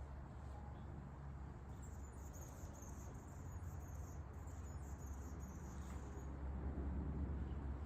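Wind rumbling on the microphone, with a faint high-pitched rapid chirping from about two seconds in to about six seconds in.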